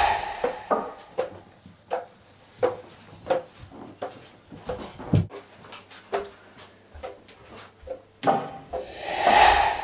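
Footsteps thudding on a wooden staircase as someone climbs it, a separate knock about every half second to second. Near the end a loud rush of noise swells up and fades.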